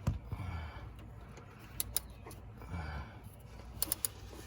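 Ratchet and cup-style oil filter wrench clicking and clinking in short bursts while the oil filter is worked loose, with a few low knocks.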